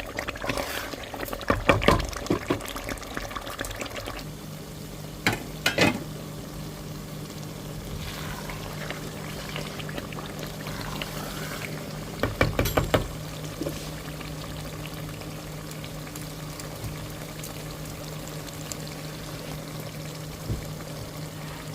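Pepper and tomato sauce bubbling and frying in palm oil in a pot, with a few short bursts of utensil clatter against the pot, around 2, 6 and 13 seconds in. A steady low hum comes in about four seconds in.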